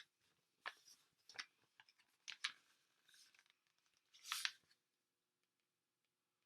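Faint, brief rustles and scrapes of handling, four or five short ones, then silence from about five seconds in.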